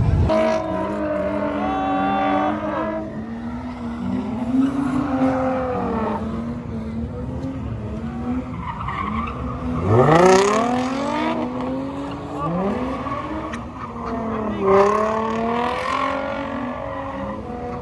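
BMW engines revving hard while the cars drift, with tyres squealing and skidding on the pavement. The engine note repeatedly climbs and falls, and the sharpest rise in revs comes about ten seconds in.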